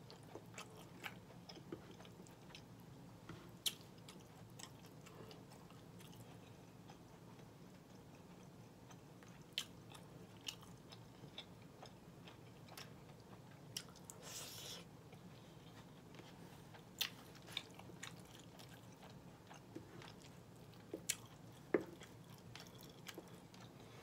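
A person chewing mouthfuls of red beans and rice and collard greens, close to the microphone, with scattered short sharp clicks and a brief hiss a little past halfway.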